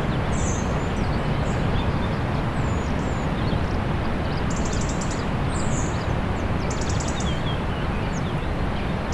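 Small songbirds chirping and trilling, with short high notes scattered throughout and rapid trills about four and a half seconds in and again near the end, over a steady low rumble of outdoor noise.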